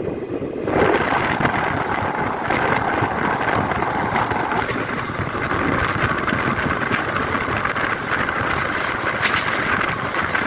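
Passenger train running at speed, heard from its open doorway: a steady rumble and rush of wheels on track, with wind buffeting the microphone. The noise swells about a second in, and a few sharp clicks come near the end.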